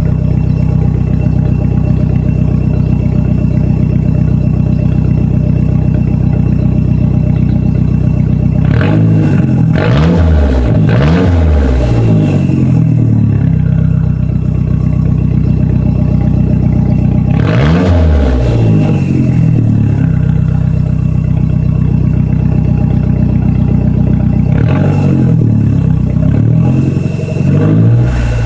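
2007 Mazdaspeed6's turbocharged 2.3-litre four-cylinder, with secondary cat and muffler deleted, idling steadily and blipped up to higher revs and back down in three short groups. These come about a third of the way in, near the middle, and near the end.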